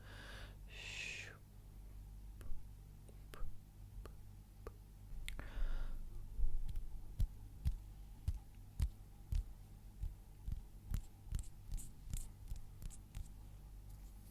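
Close-miked ASMR trigger sounds: a few breathy, whisper-like puffs, then a string of soft clicks and taps, about two a second.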